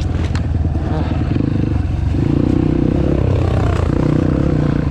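Dirt bike engine running at steady throttle, getting a little louder about two seconds in, with a couple of sharp clicks right at the start.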